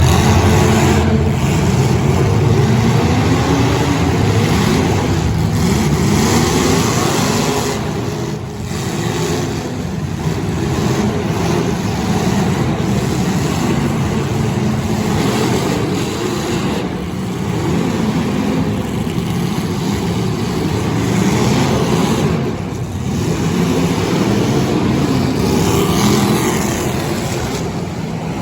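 Demolition derby cars' engines running and revving, several at once, with pitches rising and falling and dense mechanical noise throughout.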